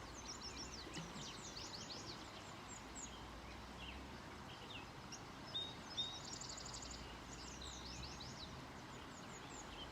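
Several songbirds chirping and trilling in quick, high-pitched notes over the steady rush of a creek. A faint low rumble comes in about four seconds in and fades near eight seconds.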